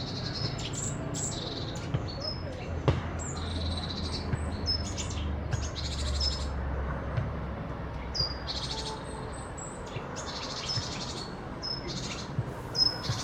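Small songbirds giving short, sharp scolding alarm calls over and over, several at once: mobbing calls raised against a Eurasian jay that has caught a small bird.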